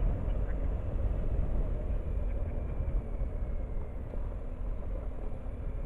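Motorcycle on the move: steady engine and road noise under a dense rumble.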